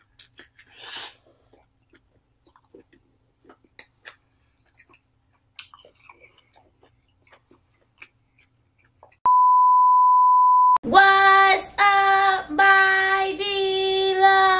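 Soft chewing and wet mouth clicks of someone eating king crab leg meat dipped in cheese sauce. About nine seconds in comes a steady, high beep tone lasting about a second and a half, then a woman singing held notes in short phrases.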